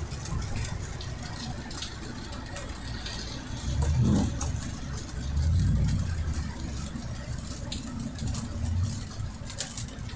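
Car engine and road noise heard from inside the cabin while driving on a rain-wet road, a steady low rumble that swells twice, about four and six seconds in.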